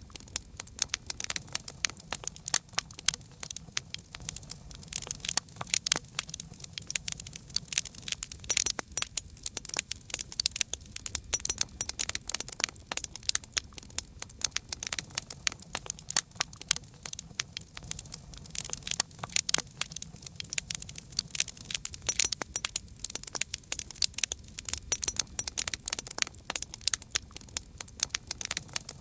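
Campfire crackling: a dense, irregular stream of sharp pops and snaps from burning wood over a low, steady rumble of the flames.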